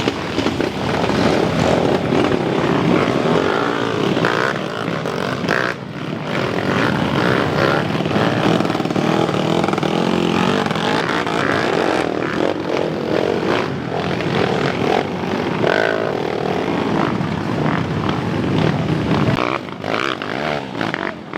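Motocross bike engines revving hard under load on a steep dirt climb, the pitch rising and falling again and again.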